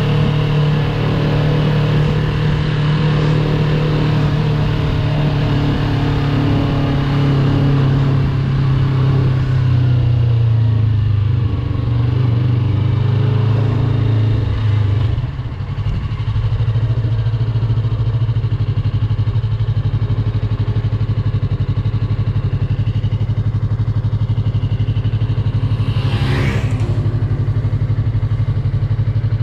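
Yamaha YZF-R3's parallel-twin engine running at low revs, easing off with a short dip about halfway and then holding a steady low beat. A brief rising whoosh sounds near the end.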